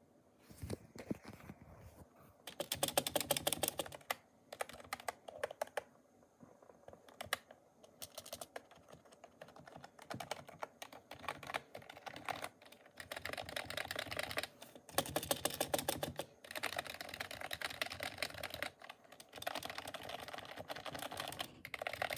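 TS91 mechanical keyboard being typed on fast, with bursts of rapid keystroke clicks broken by short pauses.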